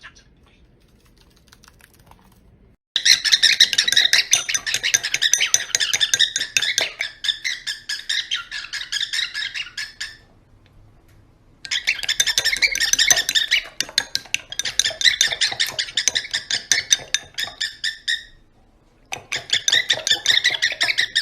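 A bird chattering with rapid high chirps and squawks in three long bouts, separated by short pauses.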